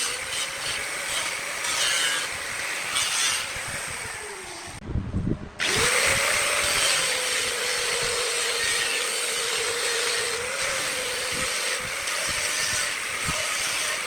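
Wood lathe running, its motor hum steady under the scraping noise of a turning tool cutting the spinning wood. About five seconds in, the hum sags lower and the sound breaks off briefly, then the cutting resumes.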